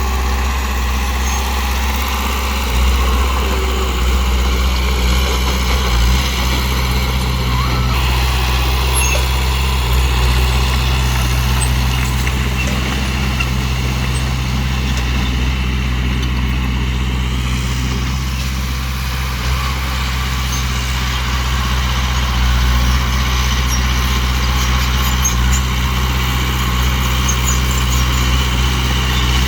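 Heavy dump truck's diesel engine running steadily, a low, even drone with no change in speed.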